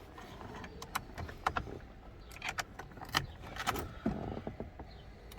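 Car keys jangling, with a scattering of light clicks and knocks from handling inside the car.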